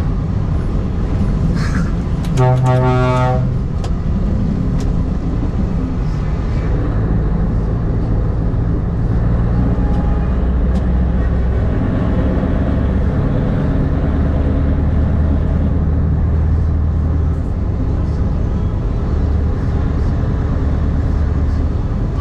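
Truck engine running steadily, with one horn blast about two seconds in that lasts about a second.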